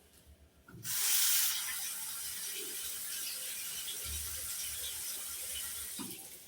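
Water running from a tap: a steady hiss that starts suddenly about a second in, loudest at the start, and stops shortly before the end.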